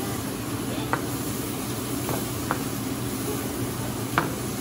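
Mushrooms sizzling steadily in a hot flat griddle pan, stirred with a spatula that clicks and scrapes against the pan a few times, loudest near the end.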